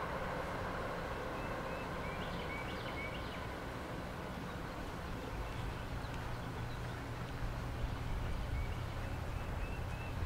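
Small songbirds chirping outdoors, a short run of chirps a couple of seconds in and another near the end, over a steady low rumble.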